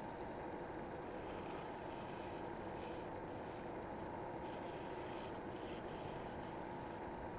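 Cheap wood lathe running with a steady hum. Its turning chisel cuts into the spinning wooden blank in several short hissing passes.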